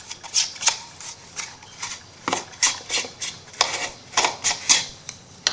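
Paper and small craft pieces being handled: irregular short rustles, scrapes and light taps.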